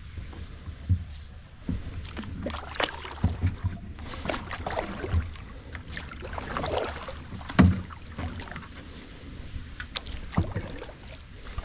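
Kayak paddling: irregular splashes of the paddle in the water, with knocks and low thumps against the kayak. The loudest thump comes about seven and a half seconds in.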